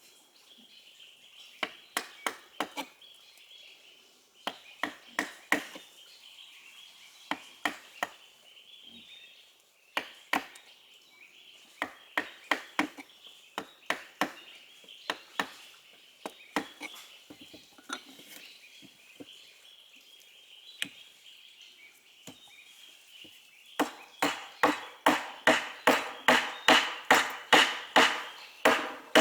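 Repeated sharp strikes on wood, coming in short groups of two to five, then in a fast, louder run of about three to four blows a second for the last five seconds. A steady high-pitched drone sits underneath throughout.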